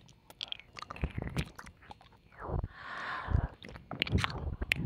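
Close, wet ASMR mouth sounds of ear licking and kissing: a run of sharp lip and tongue clicks and smacks, with a breathy slurp lasting about a second midway.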